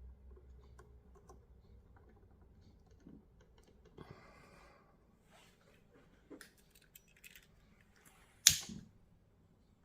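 Small parts and hand tools being handled on a workbench: scattered light clicks, a brief rustle about four seconds in, and one loud sharp clack about eight and a half seconds in.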